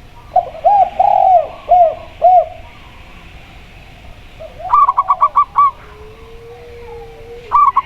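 Zebra dove and spotted dove cooing in turn. First comes a run of five arched coos. A rapid string of about seven short, higher notes follows about five seconds in, and that string starts again near the end.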